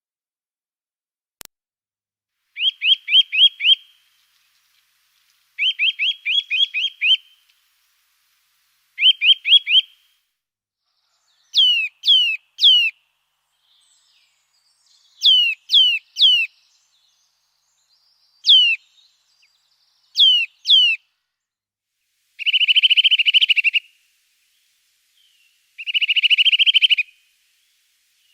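A songbird singing in short, separate phrases with pauses between them. First come quick runs of five to seven repeated notes, then pairs and triplets of high whistles falling steeply in pitch, and near the end two buzzy trills.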